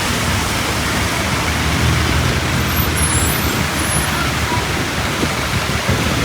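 Steady hiss of heavy rain mixed with road traffic, a vehicle's low engine rumble strongest about two seconds in.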